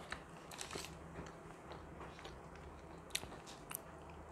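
A person chewing a mouthful of sandwich close to a clip-on microphone: faint wet mouth sounds with scattered sharp clicks, two louder ones about three seconds in.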